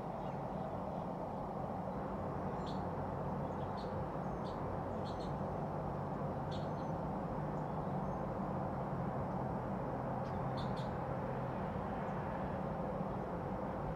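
Steady low background hum with short, high bird chirps scattered through it, a few in quick pairs.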